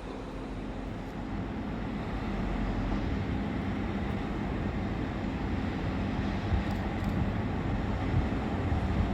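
A train running into or through the station, its rumble and hum growing steadily louder, with a few faint clicks in the last few seconds.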